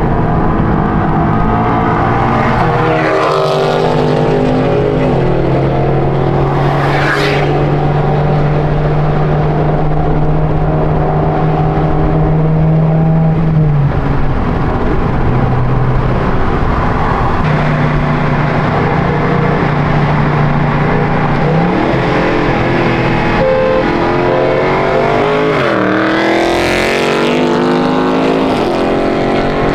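Car engine running steadily, with the revs rising about three seconds in and again near the end.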